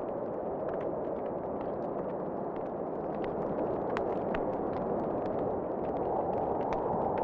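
Wood fire crackling in a fireplace, with frequent small sharp pops over a steady rushing of wind that swells slightly near the end.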